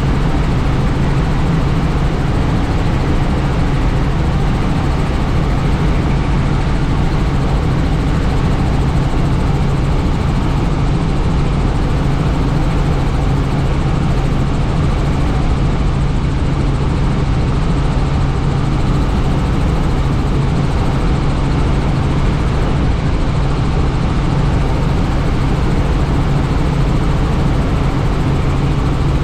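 Helicopter in steady flight, heard from inside the cabin with the doors off: a loud, unchanging drone of rotor and engine with a steady low hum and rushing air.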